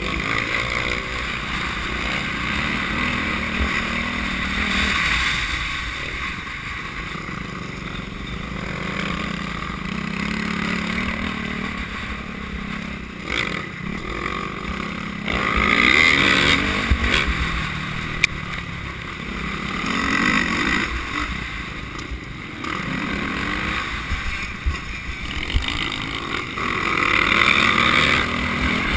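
Motocross bike engine heard from an on-bike camera, revving up and dropping back over and over as the throttle is opened and shut, with louder surges of throttle about halfway through and near the end.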